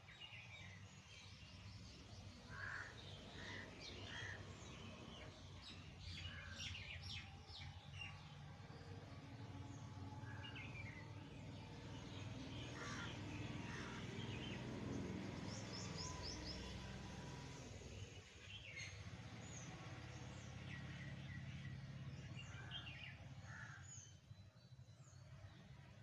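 Birds chirping and calling, many short high chirps scattered throughout, over a faint steady low rumble.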